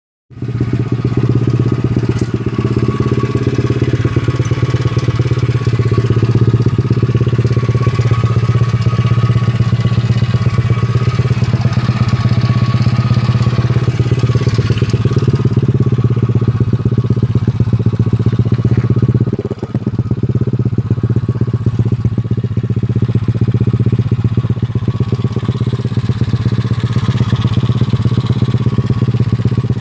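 Honda CRF50 pit bike's small single-cylinder four-stroke engine idling steadily with a fast, even exhaust beat, with a brief dip in level about two-thirds of the way through.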